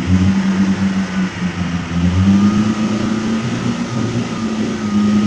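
An off-road vehicle's engine running steadily under load, its pitch wavering slightly, with a faint high whine over it.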